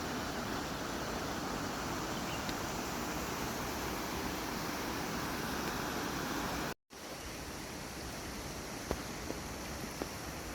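Steady rushing of flowing mountain stream water. It breaks off abruptly for an instant about two-thirds of the way through and resumes a little quieter, with a few faint ticks.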